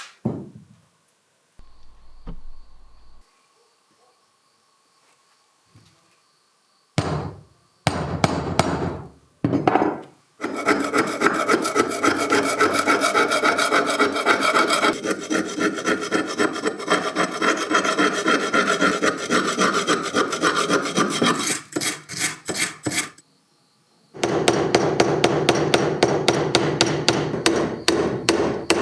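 A hand tool scraping in fast, steady back-and-forth strokes, rasping against the work, after a few scattered knocks; the strokes break off briefly near the end and start again.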